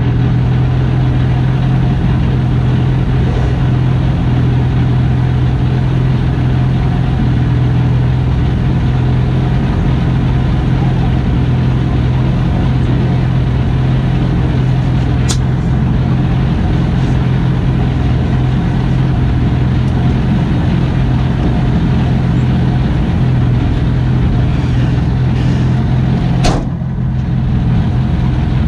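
Car engine idling steadily, heard close up. There is a sharp click about halfway through and another near the end, after which the idle note shifts slightly.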